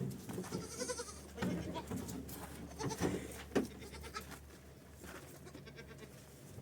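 Goats bleating, several short calls in the first few seconds, then quieter.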